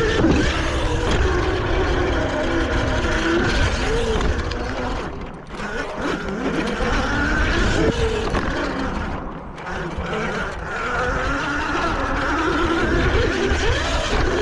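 Dirt bike engine revving up and down as the bike is ridden around a track. The throttle drops off briefly twice, about five and nine seconds in, before picking up again.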